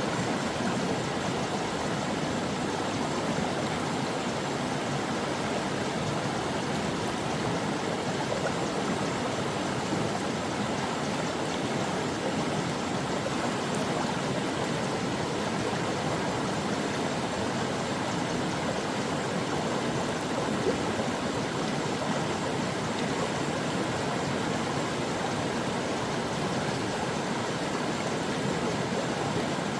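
Stream water flowing and splashing over rocks, a steady rushing with a brief click about 20 seconds in.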